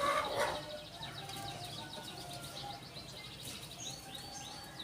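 Canary singing: long rapid trills of repeated high chirps, with a few quick downward-sweeping notes near the end. A brief louder, lower-pitched call sounds right at the start.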